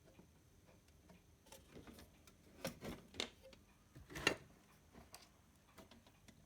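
Irregular light clicks and taps, with a few louder knocks in the middle.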